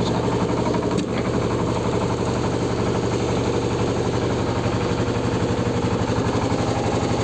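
Kubota KND250DI single-cylinder diesel engine running steadily with an even, fast firing beat. It runs smooth, which the owner points to as the sign of a healthy engine.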